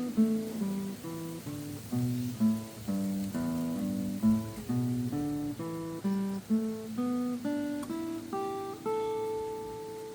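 Steel-string acoustic guitar picking a scale pattern one note at a time, the notes stepping down and up in a steady run and ending on a longer held note about nine seconds in.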